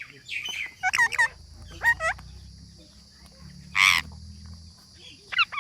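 Parrot calling: a series of short squawks with gliding pitch, and one harsher, noisier screech about four seconds in.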